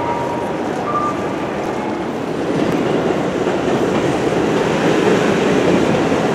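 Electric train running on the elevated tracks, its rumble and wheel noise growing louder about two and a half seconds in. Short two-pitch electronic beeps sound in the first second or so.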